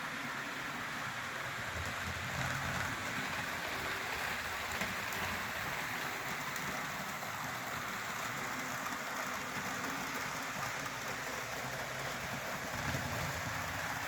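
HO scale model locomotives running around the layout: a steady whir of the small motors and metal wheels rolling on the rails.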